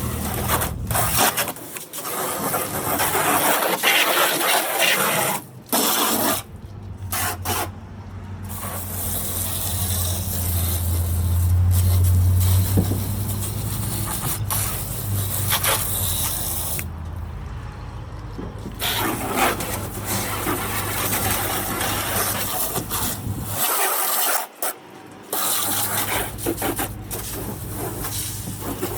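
Garden hose on jet spray hissing as it rinses soap off a car, with the water drumming on the car's body; the spray cuts off and starts again several times.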